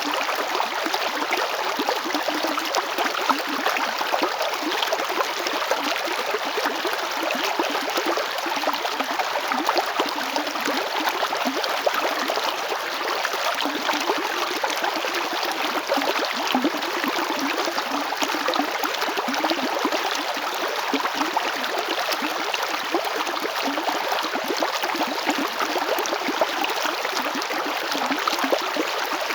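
River water flowing steadily over stones, a continuous rushing with gurgling and small splashes.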